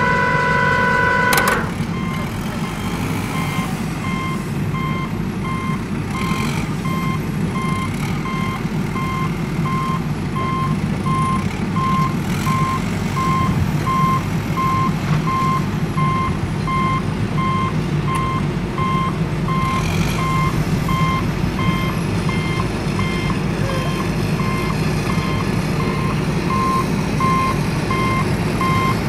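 Truck reversing alarm beeping in steady, evenly spaced beeps over a low, steady engine rumble. A held multi-note tone at the start cuts off suddenly about a second and a half in.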